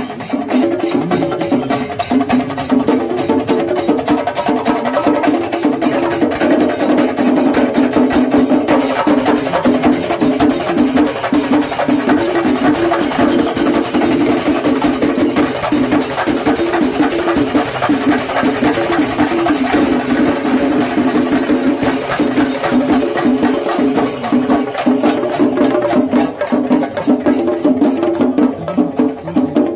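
Kerala temple-festival percussion ensemble playing: rapid, continuous chenda drum strokes over a steady pitched melody line, with no break.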